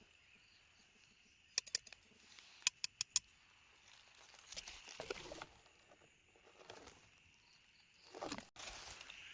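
Outdoor night ambience with a steady high insect hum, two short clusters of sharp clicks, then rustling and crunching in leaves or undergrowth, loudest near the end.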